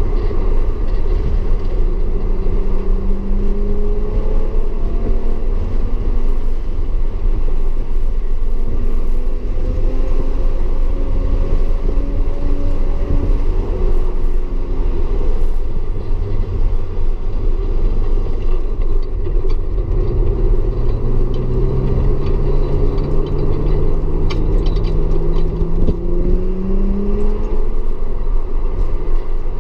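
Audi S4 engine pulling hard around a race track, its note rising and falling with acceleration and gear changes over a steady heavy rumble. In the last third it climbs in pitch for several seconds in one long pull, then drops away.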